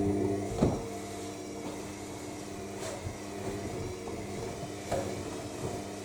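AEG 7000 Series washing machine's drum motor running during the final spin, a steady hum of constant pitch. A knock comes just under a second in, after which the hum is quieter, with two faint clicks later on.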